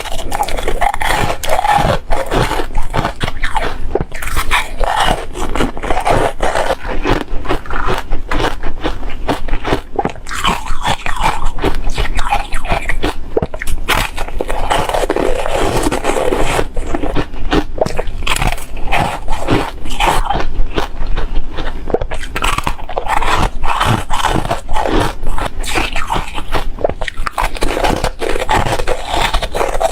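Close-miked biting and chewing of crispy frozen foam: dense, continuous crackling crunches as the brittle pieces break up in the mouth.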